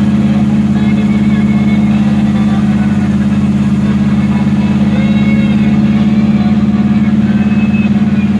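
Car engine idling steadily, loud and close, holding an even pitch with no revving.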